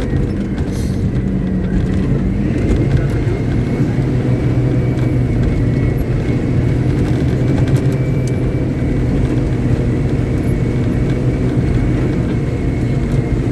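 Caterpillar 777D haul truck's diesel engine running steadily at a constant speed, with a faint steady whine above the drone.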